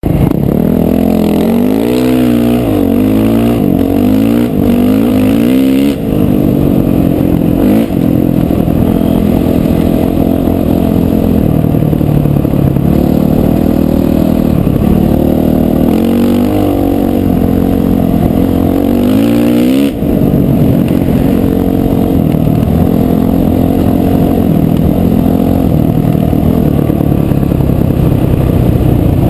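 Dirt bike engine, revving up and down several times in the first six seconds, then running under load along with small rises and falls in pitch as it shifts, with a sharp throttle drop about twenty seconds in.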